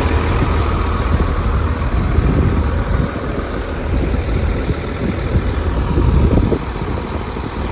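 A large engine idling with a steady low rumble; it eases slightly about six and a half seconds in.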